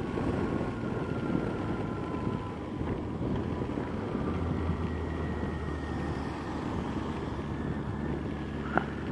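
2006 Yamaha FJR1300A's inline four-cylinder engine running steadily at cruise, under a constant hiss of wind and rain from riding in a downpour. There is one brief click near the end.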